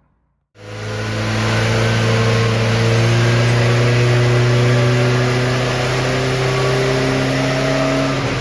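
750 Formula race car engine running on a rolling road, revs climbing slowly and steadily under load, then easing off near the end.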